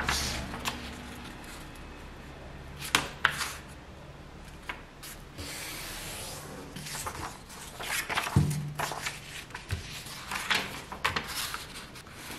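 Square sheet of paper being handled and folded, with irregular rustles and crisp crinkles as creases are pressed. There are a couple of duller knocks against the work surface about eight seconds in.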